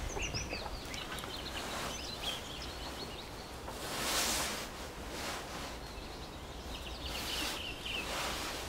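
Small birds chirping in short, high, quick notes, in a flurry near the start and again near the end, over a rushing hiss that swells up about four seconds in.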